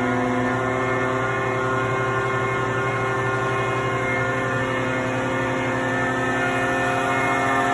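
Danfoss H1P axial piston hydraulic pump running on a test stand, stroked to one side and under pressure. It gives a steady machine whine of several tones, and the pitch shifts slightly about a second in and again near the end.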